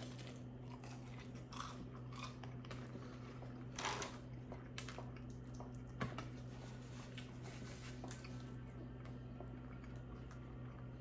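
Close-up chewing and biting of food: soft wet smacks and small crunches, with a louder noisy smack about four seconds in and a sharp click a couple of seconds later, over a steady low hum.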